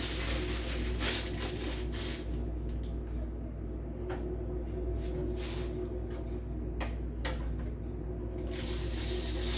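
Rustling of a dry noodle packet and a few light clicks from handling it, over a steady low hum. The rustling comes at the start and again near the end.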